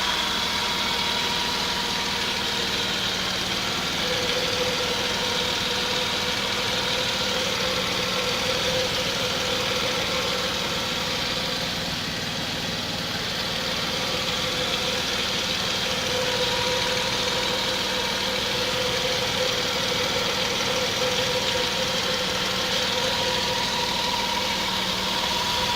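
Mercedes-Benz M104 straight-six idling steadily at full operating temperature, heard from under the car, a continuous running hum with a faint steady whine over it. It is being listened to for oil pump noise, and the owner hears only a general running noise, with a slight trace of the gearbox and the pump.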